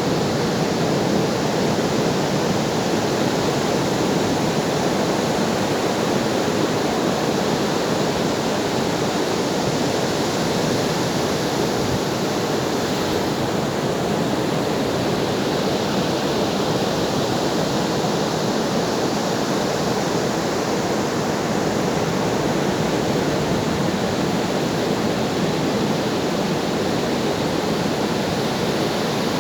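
Ocean waves: a steady, unbroken wash of surf, with no single breaker standing out.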